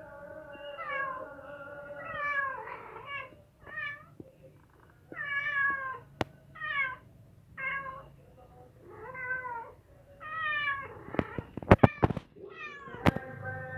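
Mother cat meowing over and over, about ten short calls that each fall in pitch. A few sharp, loud knocks come near the end.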